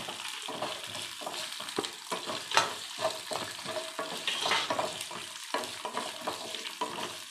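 Whole urad dal and garlic cloves sizzling in hot oil, stirred with a wooden spatula that scrapes through the lentils and across the pan in repeated short strokes. The garlic is being sautéed until half cooked.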